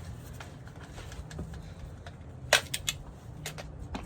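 A few light clicks and knocks of tools or parts being handled, the sharpest about two and a half seconds in, over a low steady hum.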